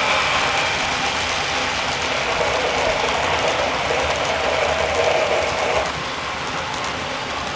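HO-scale model train running along the track: a steady whir of the motor and gearing with wheel noise on the rails, dropping off about six seconds in.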